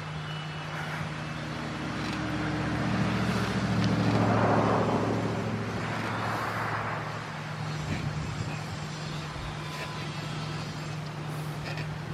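A car passing on the road, its tyre and engine noise swelling to a peak about four seconds in and then fading away, over a steady low hum.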